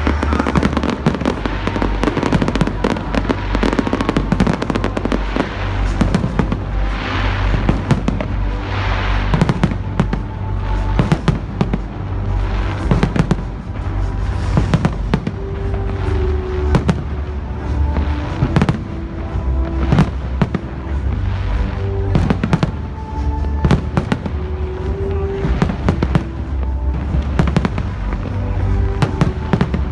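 Fireworks going off in quick succession, many sharp bangs and crackles, over loud music with a heavy bass.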